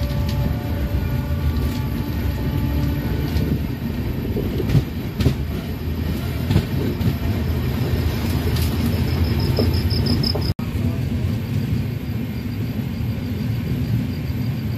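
Passenger train running on the track with a steady low rumble, and a few sharper wheel clacks over rail joints about five to six seconds in.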